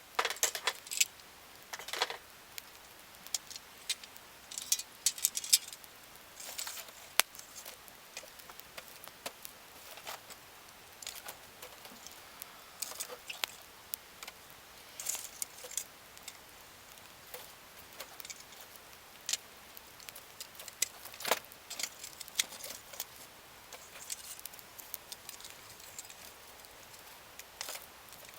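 Wood fire crackling, with irregular sharp pops and snaps, some coming in short clusters.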